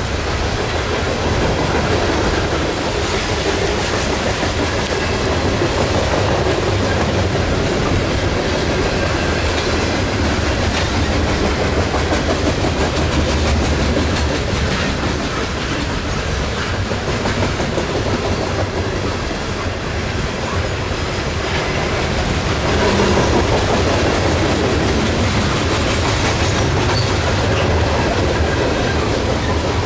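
Loaded coal hopper cars of a freight train rolling past: a steady rumble with the clatter of steel wheels on the rails.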